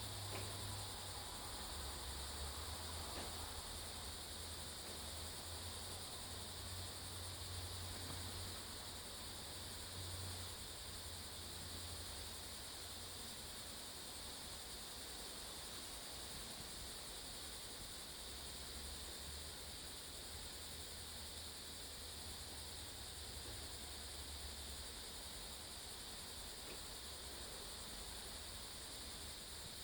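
Steady insect chorus, with even high-pitched trilling that does not let up, over a faint low hum.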